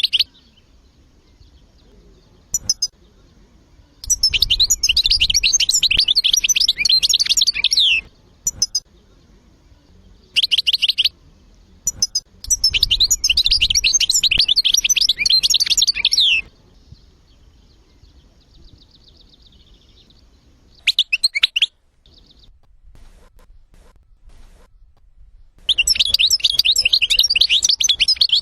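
European goldfinch singing: long, rapid, high twittering phrases of a few seconds each, separated by pauses with a few short calls.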